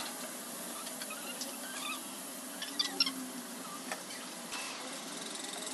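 Outdoor ambience: a steady hiss with scattered short chirps and clicks, a small cluster of them about three seconds in.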